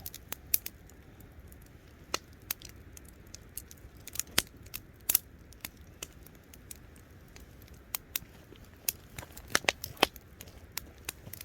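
Wood campfire crackling, with irregular sharp pops and snaps, several close together about nine to ten seconds in.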